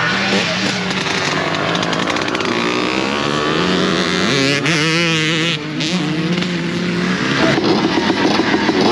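Several motocross bikes racing, their engines revving up and down through the gears as they pass. Near the end one engine comes in with a fast, rough pulse.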